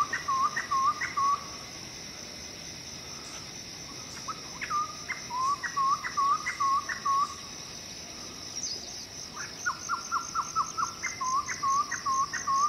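A bird calling in three runs of quick, short notes that flick upward, each run lasting a couple of seconds, over a continuous high, steady insect drone.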